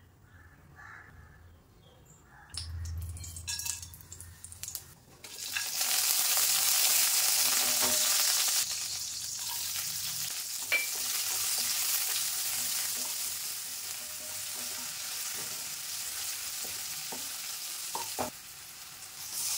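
Whole spices and sliced onion frying in hot ghee and oil in a kadai. A strong sizzle starts about five seconds in, eases a little a few seconds later and then runs steadily. Near the end come a couple of knocks from a wooden spatula stirring.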